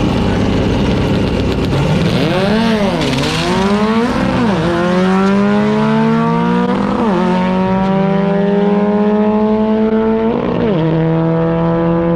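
Drag-racing cars launching and accelerating down the strip at full throttle. An engine's revs climb and fall back sharply four times as it shifts up through the gears.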